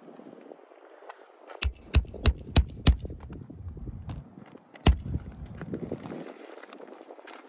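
A quick run of five sharp knocks, about three a second, then one more about two seconds later, with scuffing in between.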